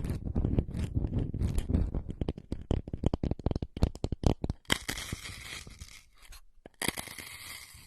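Close-miked ASMR trigger sounds: a dense run of quick crackling and scratching clicks, then two stretches of steady hiss with a short break between them.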